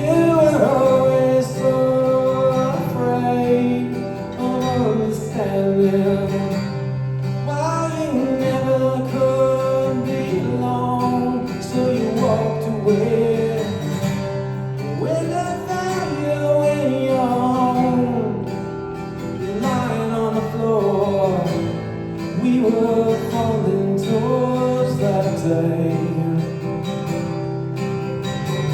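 Live song on acoustic guitar, with a sliding, wordless melody line over the steady strummed chords.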